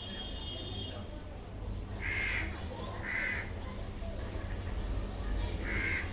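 A bird's short, harsh calls: two about a second apart, then a third near the end, over a steady low rumble.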